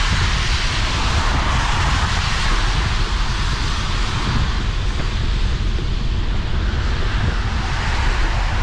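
Riding a bicycle in the rain: wind buffeting the microphone with a steady low rumble, over the hiss of tyres on a wet road.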